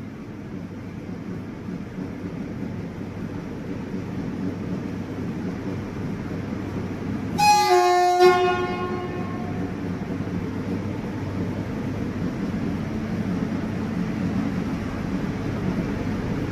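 WAG9 electric locomotive sounding its horn once, a blast of about a second, over the steady rumble of the train running, which grows slowly louder.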